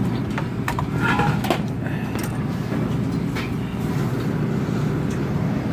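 Steady machine hum around the refrigerator's compressor area, with several sharp clicks and knocks in the first few seconds as the refrigerant hose is hooked up to the R134a tank.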